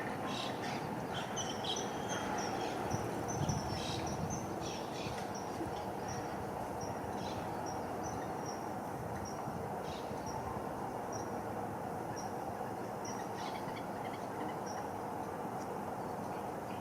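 Little grebe chick begging with a run of short, high, thin peeps about twice a second, spacing out and fading near the end, over a steady low background rumble.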